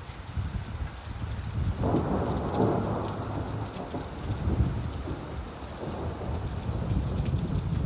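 Steady rainfall with a low rumble of thunder that swells about two seconds in and slowly dies away.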